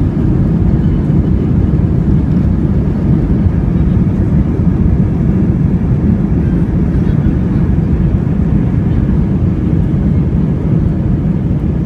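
Loud, steady low rumble inside an Airbus A320's passenger cabin: engine and airflow noise during landing.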